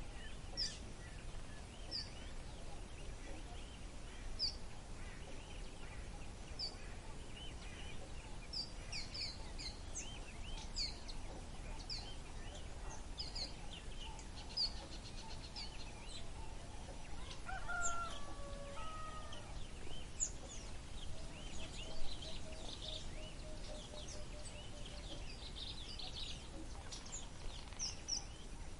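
Wild birds calling, with many short high chirps throughout. About two-thirds of the way in comes one lower call with several tones, followed by a quick run of low notes, all over a steady low background hiss.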